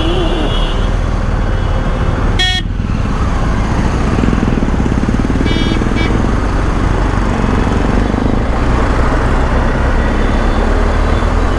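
Riding noise of a BMW R1250 GS motorcycle in traffic: a steady low engine drone under constant road and wind rush. Short vehicle horn toots sound at the very start, about two and a half seconds in (the loudest and briefest), and again near six seconds.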